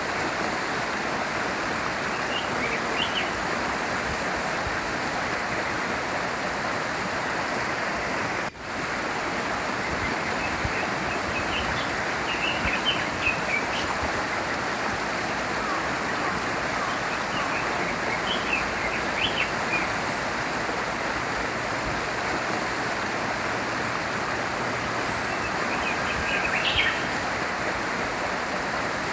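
Small stream flowing steadily, with scattered short bird chirps over the water. The sound drops out for an instant about a third of the way in.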